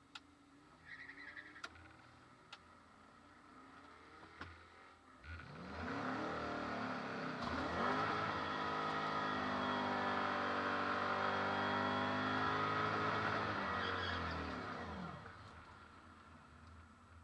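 Car engine revved up in two steps and held at high rpm for about six seconds during a burnout, then dropping back to idle; heard from inside the car. A few faint clicks come before it.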